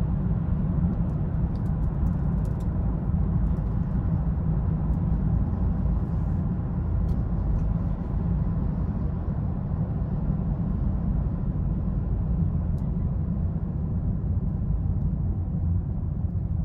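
A 2020 BMW 330i's 2.0-litre turbocharged four-cylinder and its tyres, a steady low rumble from a car cruising.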